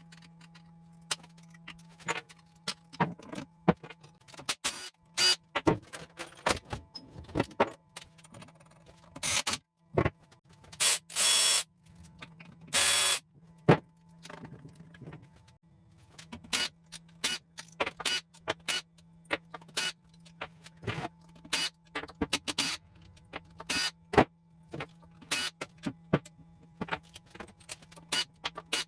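Metal tools and engine parts clinking and clattering during a workshop teardown, with irregular sharp clicks throughout over a steady low hum. Two loud hisses of about a second each come about eleven and thirteen seconds in.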